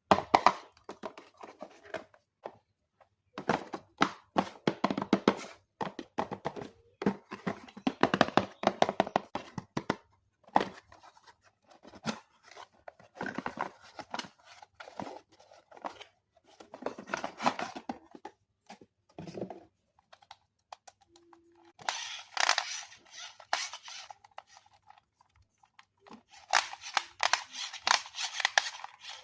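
Toy packaging being handled and opened: irregular bursts of crinkling, scraping and tearing from plastic and cardboard, with small clicks and knocks, starting and stopping throughout.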